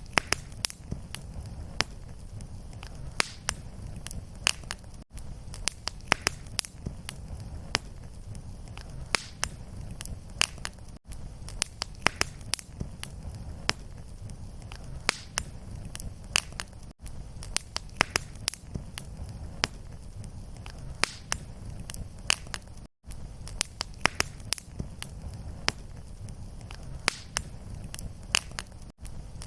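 Wood fire crackling in a fireplace: frequent sharp pops and snaps over a steady low rumble. There are brief gaps in the sound about every six seconds.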